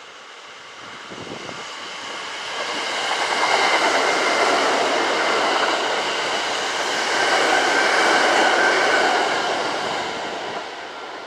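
Kintetsu electric train passing through the station, building up over a couple of seconds, staying loud for several seconds, then fading away, with steady high tones running through the rumble of the wheels.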